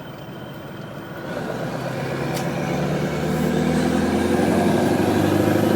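Bonneted truck's diesel engine pulling under acceleration, heard from the cab, growing steadily louder from about a second in.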